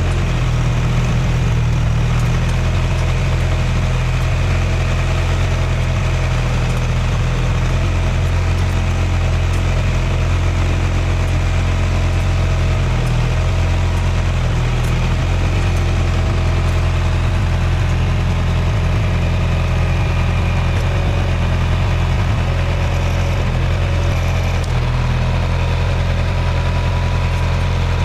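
A vehicle engine idling steadily with a low, even drone.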